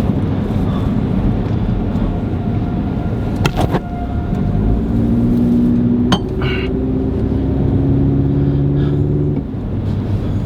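A vehicle's engine running under a steady low road rumble. From about the middle, its engine note holds and shifts steadily for several seconds, with a couple of sharp knocks along the way.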